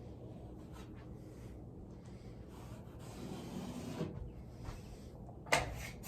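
A 12-inch drywall knife scraping and smoothing joint compound over a drywall joint, with a sharper clack about five and a half seconds in.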